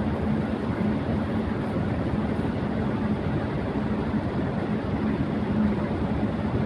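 Electric fan running at high speed: a steady rush of moving air with a low, slightly wavering hum from the motor.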